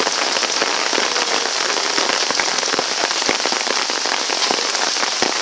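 Heavy thunderstorm rain falling steadily: an even hiss dotted with many sharp ticks of single drops striking.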